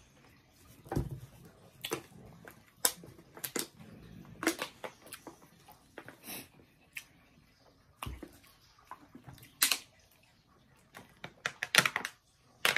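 A person chewing a mouthful of chicken nugget with lips closed: scattered, irregular wet smacks and clicks. Near the end a plastic water bottle crackles in a quick flurry as she drinks from it.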